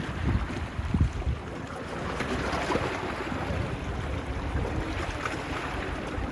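Waves washing on a beach, with wind buffeting the phone's microphone in low gusts, strongest about a second in.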